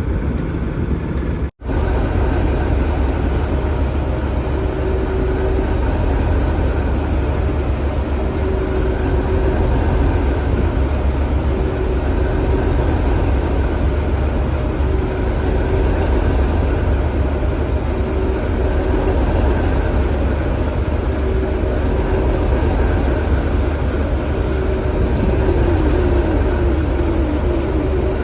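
Steady low rumble of a ScotRail diesel train's engine, with a faint tone coming and going every couple of seconds. The sound drops out for an instant about a second and a half in.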